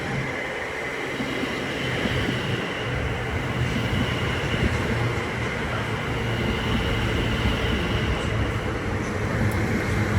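Two coupled Class 720 Aventra electric multiple units running into the platform. A steady rumble of wheels on rail carries a low hum and thin high whining tones over it.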